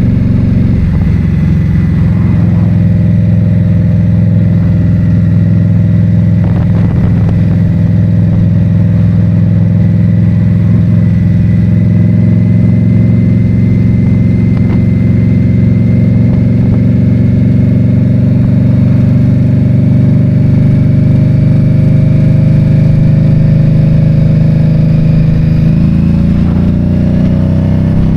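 2022 Indian Scout Bobber's V-twin engine running under way at a steady pitch that creeps slowly upward. The engine note shifts about two seconds before the end.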